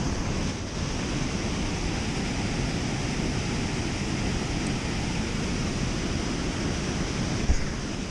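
Steady rushing of water pouring through a dam spillway, with a brief low thump near the end.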